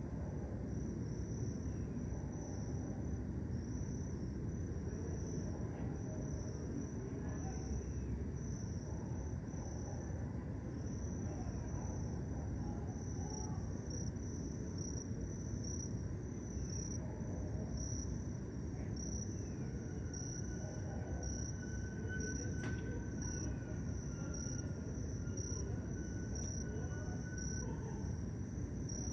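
Cricket chirping in an even, repeating high pulse, over a steady low rumble of distant background noise.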